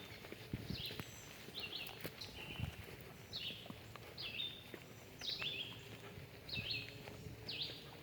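A bird calling over and over, a high two-part falling call about once a second, with soft thuds of footsteps on the path underneath.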